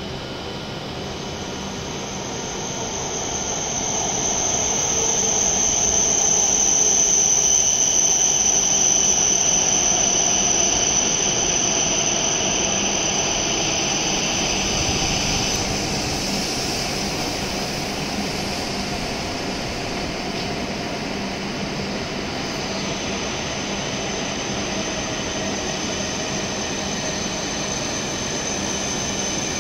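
E7 series Shinkansen train pulling in along the platform and slowing. Its running noise swells as the cars pass and then eases, with a steady high-pitched whine throughout.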